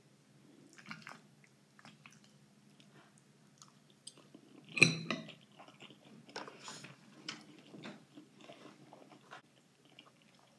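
A person chewing a mouthful of pasta salad, with small scattered clicks and one louder sharp clatter about five seconds in.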